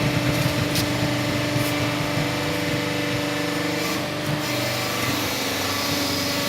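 Hydraulic cardboard baling press running: its electric motor and hydraulic pump give a steady hum with a held whine while the ram compresses a bale of cardboard. The low part of the hum eases a little about four seconds in.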